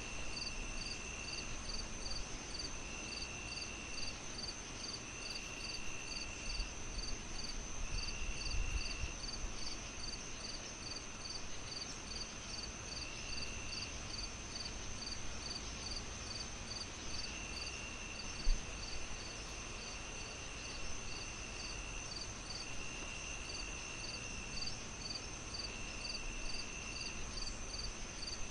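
Crickets chirping: a high chirp pulsing about three times a second over a continuous higher trill, with a lower trill that comes and goes in stretches of a second or two, over a soft even hiss. A single low pop sounds about eighteen seconds in.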